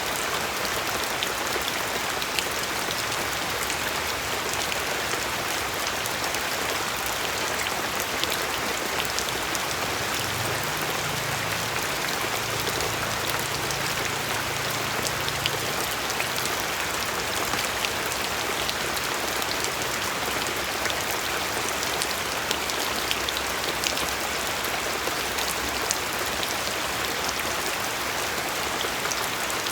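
Steady rain falling, with a constant hiss and many individual drops ticking sharply on a surface.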